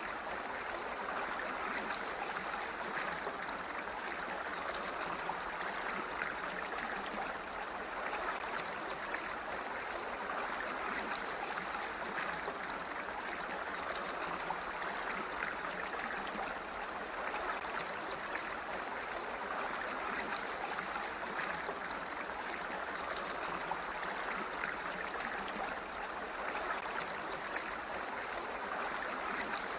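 Flowing water, like a stream, with a steady, even rush that does not change.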